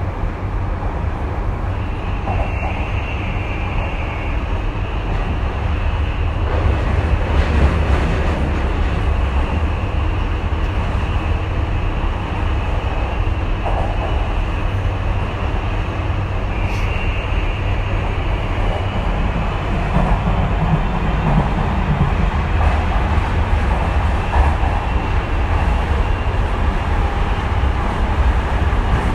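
Tokyu 2020 series electric train running at speed, heard from inside the car: a steady low rumble of wheels on the rails. A faint high whine comes in twice, near the start and about midway.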